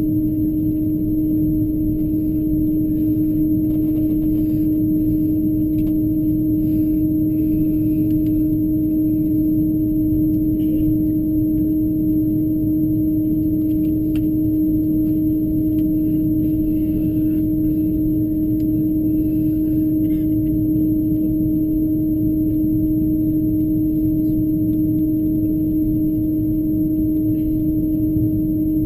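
Airbus A330-200 cabin noise while taxiing: a steady drone with a constant low hum. Faint voices come and go in the background.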